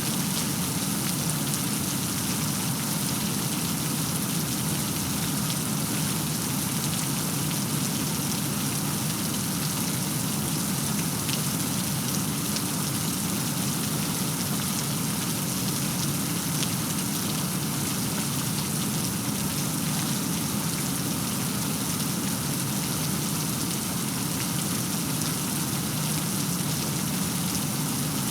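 Steady rain falling, an even hiss with faint scattered patter of drops.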